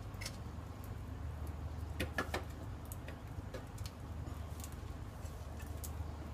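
A small wood fire crackling in a Firebox Nano mini stove: scattered ticks and pops, a few close together about two seconds in, over a low steady rumble.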